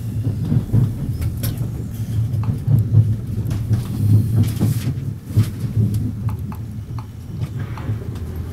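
Swiss Federal Railways passenger train running along the line, heard from inside the carriage: a steady low rumble with scattered sharp clicks and knocks.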